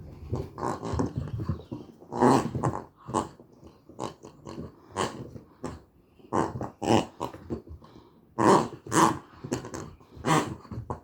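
A puppy growling and grunting in short, irregular bursts, over and over.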